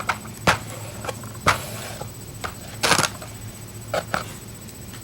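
Scattered small clicks and taps of objects being handled, with two short scratchy rasps, one about a second and a half in and a louder one near three seconds in, over a faint steady hum.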